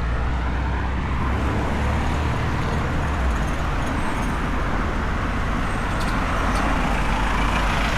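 Street traffic at a busy city intersection: cars and other motor vehicles running and passing, a steady rumble of engines and tyres.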